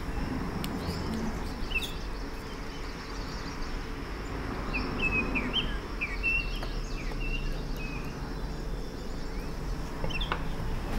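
Small birds chirping in short high calls, several in quick succession about halfway through, over a low steady background hiss. A few faint taps and scrapes of a metal palette knife.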